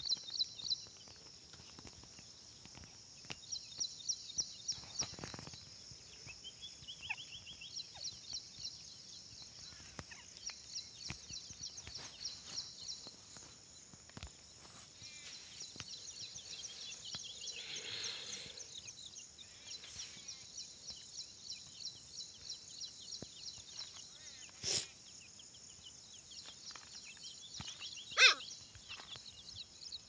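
Bird calls: high, rapid chattering trills in repeated short bouts, with two louder sharp calls near the end that fall in pitch.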